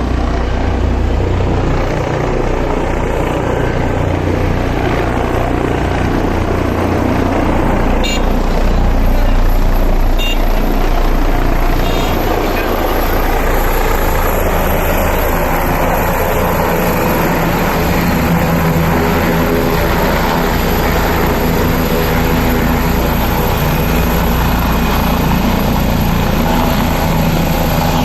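Helicopter coming in to land, its rotor and engine running loud and steady.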